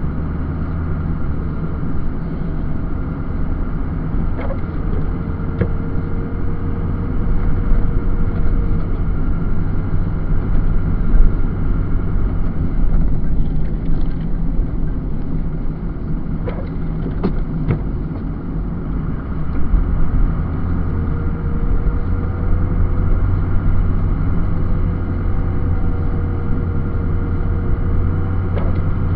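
Snow-plow truck's engine running steadily under a continuous low rumble while plowing. A faint steady whine comes and goes, and a few brief knocks sound about a third and about halfway through.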